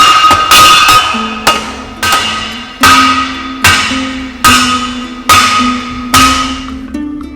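A blacksmith's hammer striking steel on an anvil in a steady rhythm, roughly one blow a second, each blow ringing out before the next. The blows stop near the end. Background music with low sustained notes comes in about a second in.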